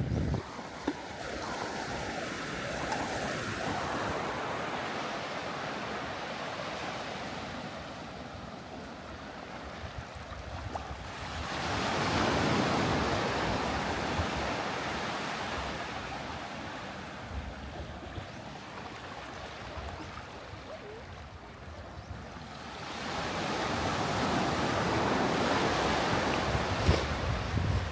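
Sea surf: waves breaking and washing up the beach, swelling about twelve seconds in and again near the end, with wind buffeting the microphone.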